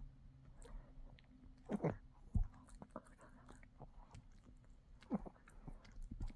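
A dog gnawing on a dog chew: irregular small clicks and bites, with a few louder crunching bites about two seconds in and again about five seconds in.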